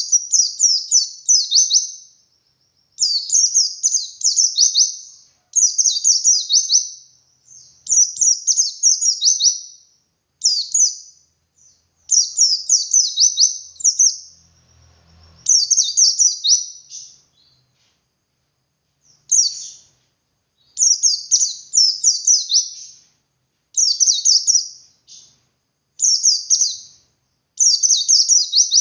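Yellow-breasted white-eye (pleci dakun) singing its 'ngalas' song: phrase after phrase of rapid, high chirping notes, each burst a second or two long with short pauses between.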